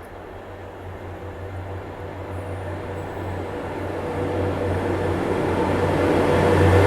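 A train approaching, its low steady hum and rail noise growing steadily louder.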